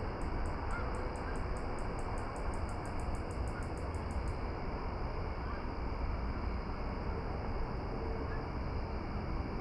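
Steady outdoor noise with a low rumble, over which a rapid run of high chirps, about six or seven a second, sounds for the first four seconds or so and then stops.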